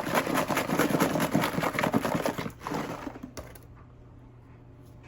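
A spice shaker jar shaken rapidly, a dense rattle for about two and a half seconds, followed by a couple of light clicks and then quiet room tone.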